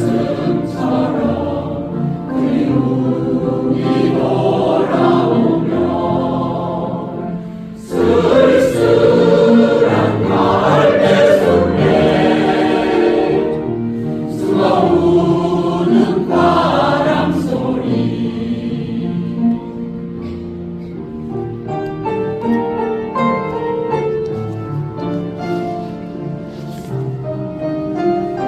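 Choir singing a slow song in Korean over instrumental accompaniment. About two-thirds of the way through the voices stop and the accompaniment plays on alone, more quietly.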